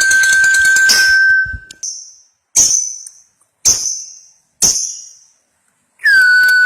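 Three separate ringing dings about a second apart, each dying away slowly, after a steady high held tone ends; a new held tone starts near the end.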